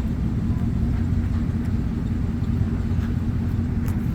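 Motor vehicle driving slowly: a steady low rumble of engine and tyres.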